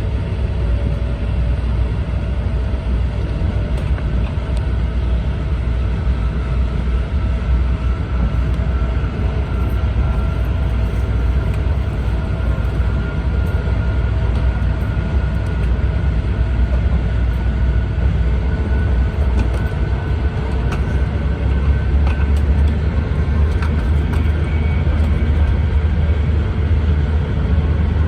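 Steady low rumble of an E4 series Max Shinkansen train running, heard from inside a Green car, with a faint whine that slowly rises in pitch.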